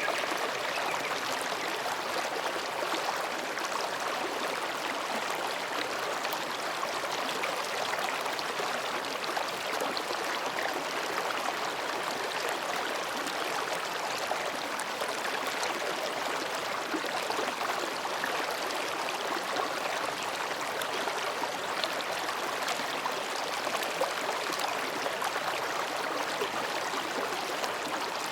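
Mountain stream babbling over and between rocks, a steady, even rush of water.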